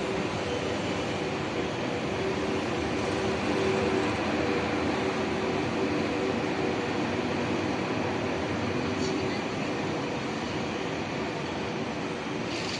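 TGV high-speed train running: a steady rushing noise with a low electric hum, a little louder about four seconds in.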